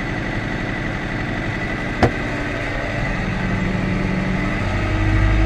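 A harvest machine's diesel engine runs steadily, with one sharp click about two seconds in. Near the end the engine note rises and gets louder as it picks up speed or load.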